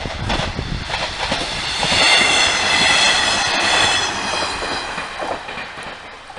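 Train passing over a level crossing: wheels clacking over rail joints, then a loud, high-pitched steady screech from the wheels on the rails for a few seconds, fading away near the end.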